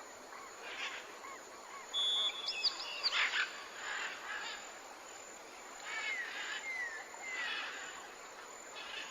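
Forest bird chorus: many short whistled chirps from several birds, some sliding down in pitch, over a steady background hiss, busiest two to three seconds in.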